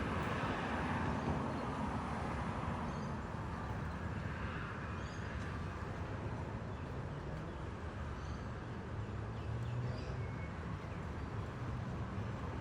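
Steady outdoor background noise with a low hum underneath and a few faint, short high chirps; no distinct thunderclap.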